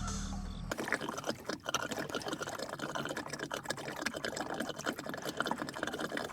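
Liquid being poured, a dense, noisy run of small splashes, which starts under a second in after the tail of some music.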